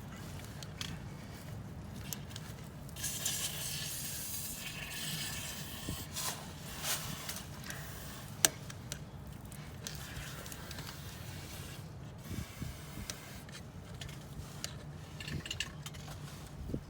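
Hand tool scraping and clicking as a greased rubber seal is poked into its groove around an excavator's swing bearing, with a hissy scraping stretch about three seconds in and a sharp click near the middle, over a steady low hum.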